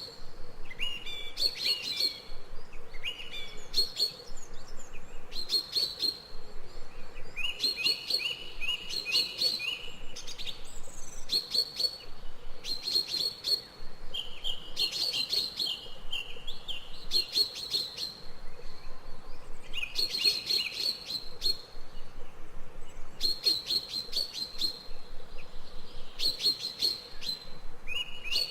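Birds chirping in short bursts of rapid, clicky notes, a burst every second or two, over a faint steady background.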